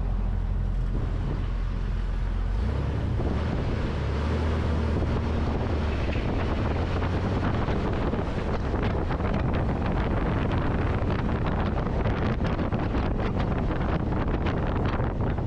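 Wind buffeting a microphone mounted outside a moving Jeep Wrangler, over the low rumble of the vehicle driving on the road. A scatter of short sharp ticks comes in over the second half.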